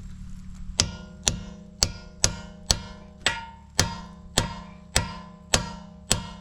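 A hammer striking a socket about eleven times, roughly twice a second, each blow sharp and metallic with a ringing tail. The socket is being beaten onto a locking fastener so that it bites enough to turn it off.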